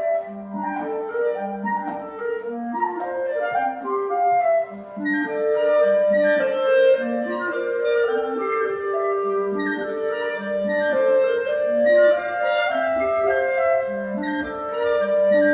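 A woodwind trio of flute, clarinet in C and clarinet in B-flat playing a classical chamber piece, the parts moving in interlocking runs of short notes over lower sustained clarinet tones.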